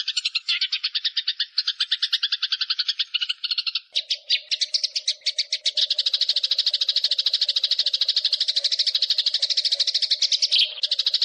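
Eurasian tree sparrows in fighting mode, chattering in a fast, unbroken roll of repeated notes, many to the second. About four seconds in the chatter changes and a steady low hum joins underneath; a short break comes near the end.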